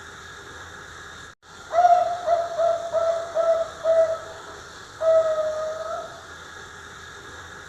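A young zebra dove (perkutut), about three and a half months old, cooing. Shortly after a brief dropout it gives a rolling phrase of one longer note and then about five short, evenly spaced notes. Later it gives a single long, held coo.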